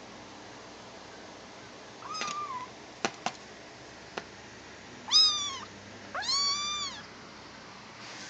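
Seven-week-old tabby kitten meowing three times in high-pitched calls, the last one the longest, with a few sharp clicks between the calls.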